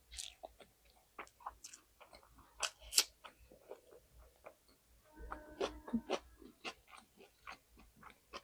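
Close-miked mouth sounds of a person chewing spicy egg and rice, with many irregular sharp wet clicks and smacks.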